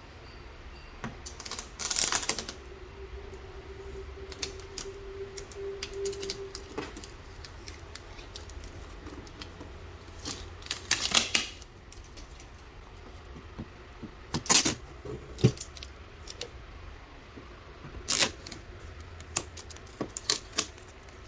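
Scattered clicks, taps and knocks of parts being handled while the laser engraver is unpacked and set up, with a few louder clattering clusters and a steady low tone lasting a few seconds near the start.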